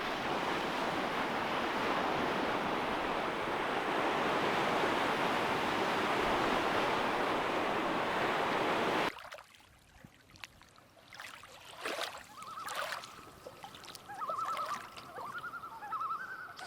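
Lake Superior waves washing steadily onto the shore, cutting off abruptly about nine seconds in. A quieter stretch follows with a few sharp clicks and a run of short, wavering calls.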